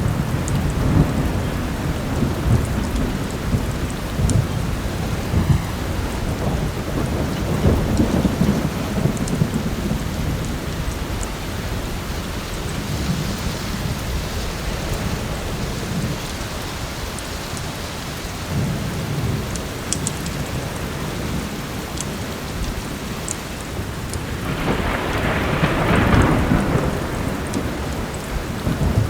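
Heavy rain with thunder rumbling low and continuously, swelling into a louder, fuller peal about 25 seconds in, with occasional light crackles from a fireplace.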